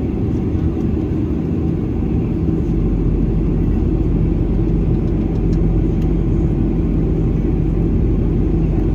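Steady low rumble of engine and airflow noise inside a Boeing 737-800's cabin, with a faint steady hum. The deepest part of the rumble grows stronger about three seconds in.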